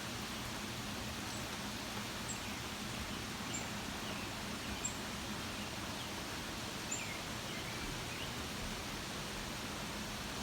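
Steady rain falling during a thunderstorm, an even hiss with no thunder. Faint short high chirps come now and then over it.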